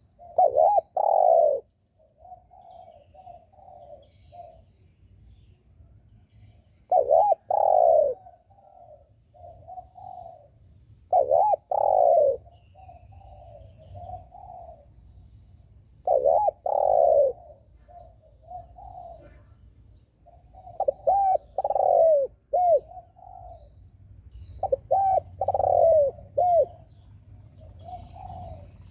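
Spotted dove cooing over and over, one phrase every four to five seconds. Each phrase is two or three loud rising-and-falling coos followed by a few softer trailing coos. Faint small-bird chirps can be heard behind it.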